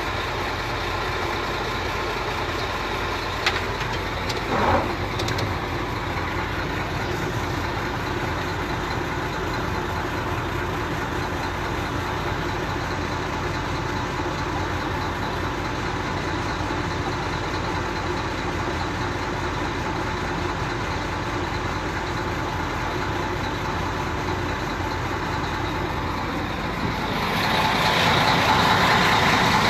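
A motor vehicle's engine running steadily, with a short click about three and a half seconds in. The sound grows louder near the end.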